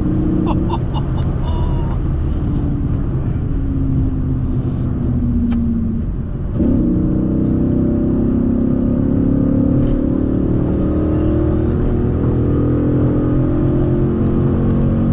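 Dodge Charger SRT8's 6.1-litre Hemi V8 running under load. The engine note holds steady and sags slightly, breaks briefly about six seconds in, then climbs steadily in pitch as the car accelerates hard.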